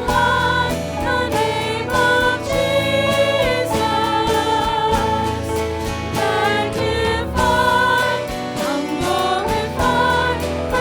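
Church worship music: sung melody with held, wavering notes over instrumental accompaniment with a steady beat.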